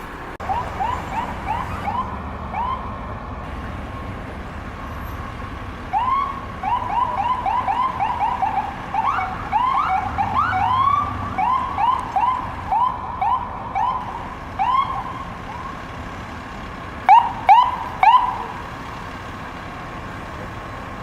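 Emergency vehicle siren sounding in short rising whoops, several a second, in broken runs, with three louder whoops near the end, over a steady low vehicle rumble.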